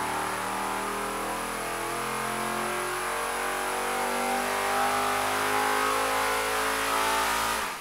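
A 436-cubic-inch LS V8 competition engine running on an engine dyno. It gets somewhat louder in the second half, then cuts off suddenly near the end.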